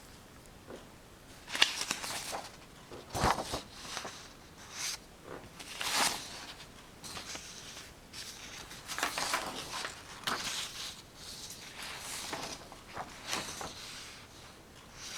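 Pencil scratching on paper in irregular sketching strokes, some short and some drawn out for about a second, with uneven pauses between them.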